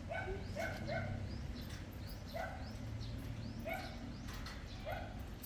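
A dog barking in the distance: several short barks, some in quick pairs.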